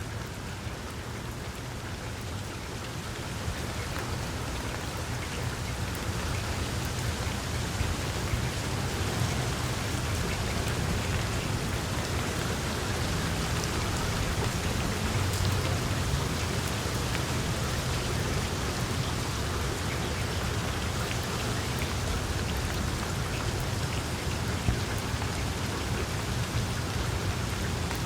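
Small wood fire burning in a fireplace: a steady hiss and low rumble with many small crackles, growing a little louder over the first several seconds, and one sharper pop near the end.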